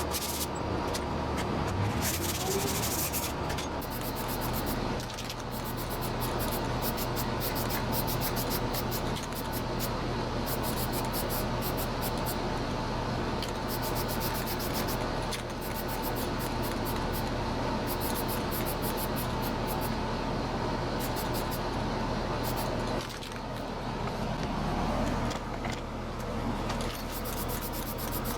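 Sandpaper rubbing on the weather station's fan blades in continuous, repeated strokes, readying them for paint, over a steady background hum.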